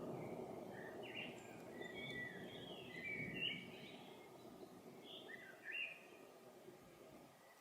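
A songbird chirping in short bursts of quick notes, over a low rumble of distant thunder that fades away near the end.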